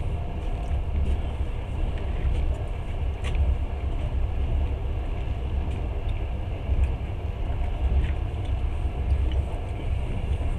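Passenger train running along the track, heard from inside the carriage: a steady low rumble with a faint click now and then.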